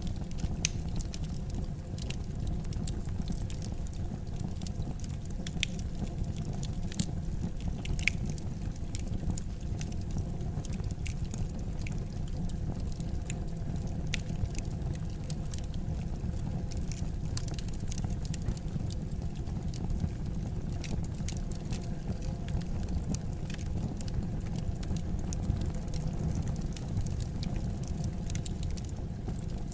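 Fire in a fireplace crackling: frequent, irregular small snaps and pops over a steady low rumble of the flames.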